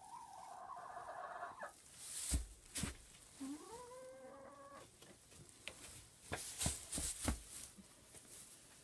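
A broody hen on her nest giving two drawn-out calls, the second rising in pitch, as she is disturbed over her egg. Scattered sharp knocks and rustles come in between and after.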